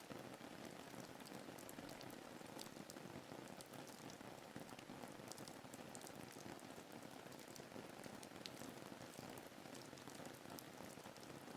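Faint, steady rain ambience: an even hiss of rainfall with many small sharp drop ticks scattered through it.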